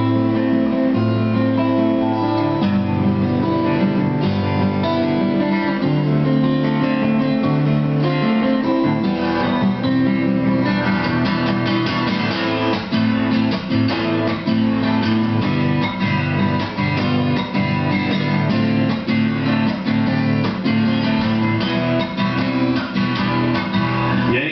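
Acoustic guitar playing a song's instrumental introduction in strummed and picked chords, growing busier about ten seconds in.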